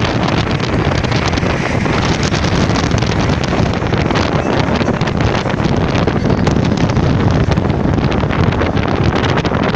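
Wind buffeting the microphone: loud, steady noise with constant fluttering and no pitch to it.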